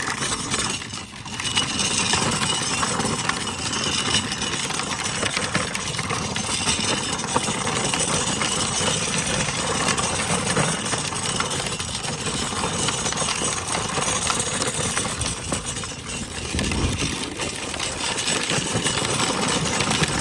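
A trike's engine running steadily while it is ridden, with dense ride noise; the sound dips briefly about a second in.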